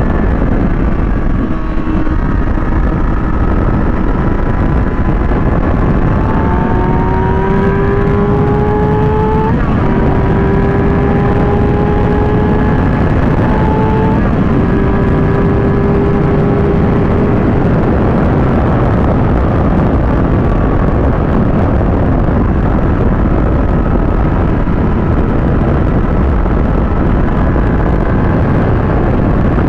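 Kawasaki ZX-6R's inline-four engine under way, with heavy wind rush over the microphone. Several seconds in, the engine note rises steadily, drops sharply at an upshift, and climbs again. It then holds for a few seconds and sinks back under the steady wind rush.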